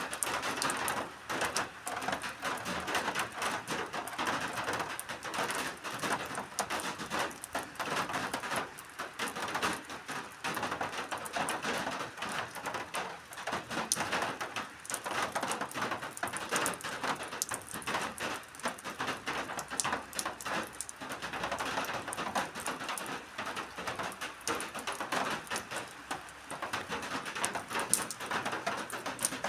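Steady rain pattering: a dense, even stream of small drops ticking on a surface.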